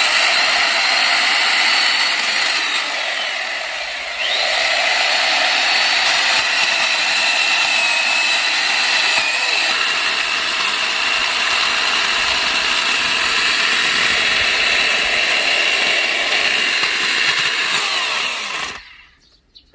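Keyang 1460 W electric chainsaw running continuously as it cuts through a log, its high motor whine sagging in pitch under load a few seconds in, then steadying. It cuts off abruptly near the end.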